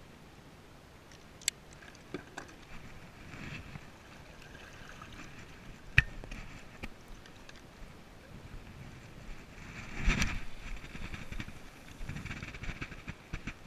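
Water sloshing and splashing against a kayak, in several swells, with a few sharp knocks on the boat; the loudest knock comes about six seconds in.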